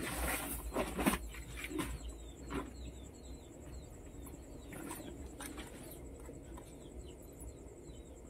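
Small birds chirping in bursts, each call a short downward-sliding chirp repeated several times. A knife cutting and trimming capsicum over a steel plate gives a few sharp clicks and taps, the loudest about a second in.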